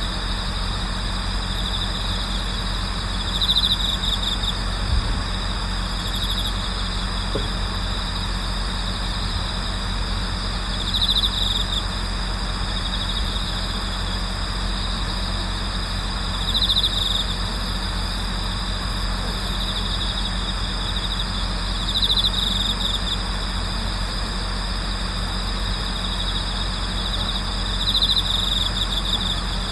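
Autumn insects singing at night: a steady high cricket chorus, with a louder ringing trill of a bell cricket (suzumushi) coming back about every five to six seconds, over a steady hiss.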